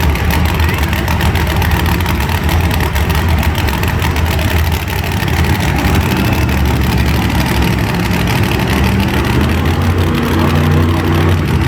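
Monster truck engines running at idle with a steady deep rumble, with some rising engine pitch near the end.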